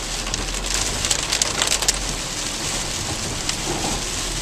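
Heavy rain hitting a moving car, with many scattered sharp drop impacts over a steady hiss and a low steady hum of the car underneath.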